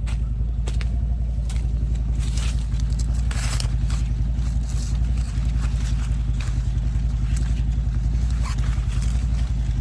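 A vehicle engine running steadily with a fast, even low pulse, with scattered short rustling and scraping noises over it.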